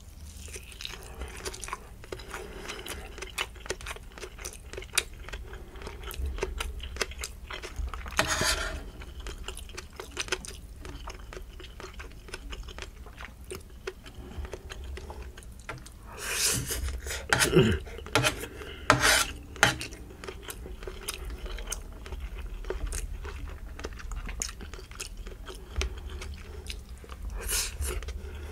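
Close-miked chewing of canned luncheon beef and shrimp fried rice, wet mouth sounds with small clicks, mixed with a metal spoon and fork clinking and scraping on a metal tray. A few louder clatters stand out at intervals.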